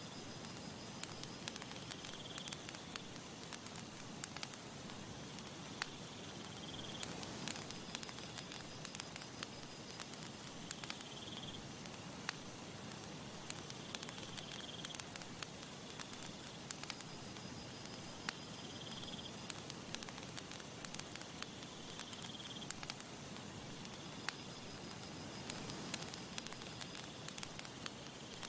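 Campfire crackling: a dense run of small pops and snaps over a steady hiss. Faint high chirping trills recur every few seconds.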